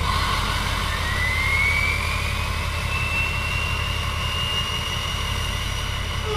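Diesel truck engine running steadily with a low rumble, under a high turbocharger whistle that climbs in pitch over a couple of seconds and then holds.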